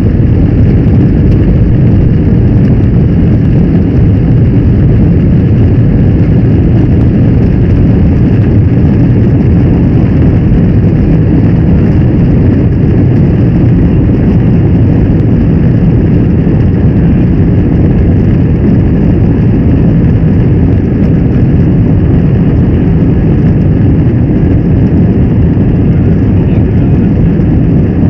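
Boeing 747's jet engines and the rushing air heard inside the passenger cabin: a loud, steady low rumble with faint steady whining tones above it.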